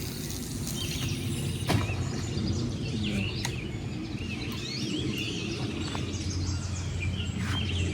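Songbirds chirping now and then over a steady low rumble of outdoor background noise, with a few sharp single clicks.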